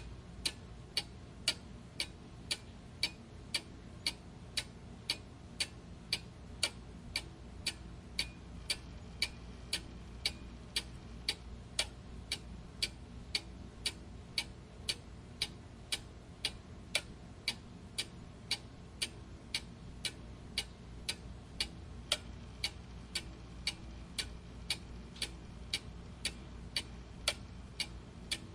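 Clock ticking steadily at about two ticks a second, each tick a sharp, even click, over a faint low hum.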